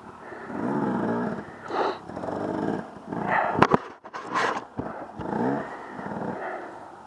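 Off-road vehicle engine revving up and easing off as it is ridden, with a few sharp knocks about halfway through.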